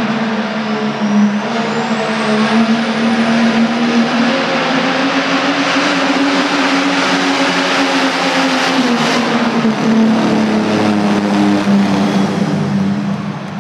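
Diesel pickup truck engine held at full throttle under heavy load while pulling a tractor-pull sled, loud and steady, with a high whistle rising over the first few seconds. The engine pitch sags a little about two-thirds of the way through, and the sound drops off near the end.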